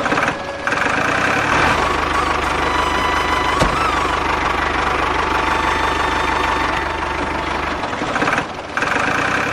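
Engine-like mechanical running sound with a fast, even low beat and a steady whine above it. It dips briefly twice, once just after the start and once near the end, and there is one sharp click about three and a half seconds in.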